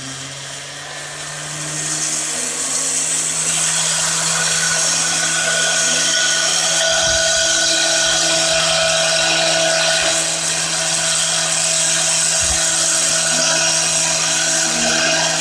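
A power tool's motor running steadily at one pitch, with a harsh, hissing cutting noise that builds from about two seconds in and then holds.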